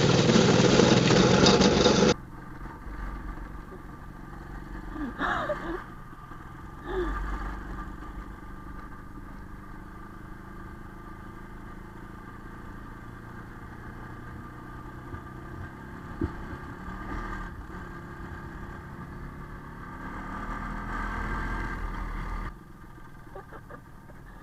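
IZh Planeta single-cylinder two-stroke motorcycle engine running. Loud for the first two seconds, then it drops abruptly to a steadier, quieter run with a few brief rises.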